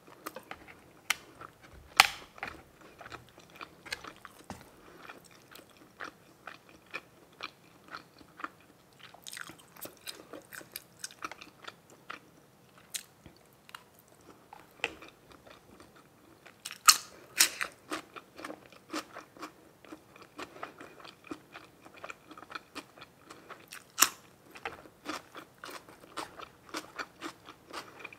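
Close-miked eating of grilled pork meatballs and red sausage: irregular wet chewing clicks and crunchy bites, with sharper bites about two seconds in, around the middle and near the end.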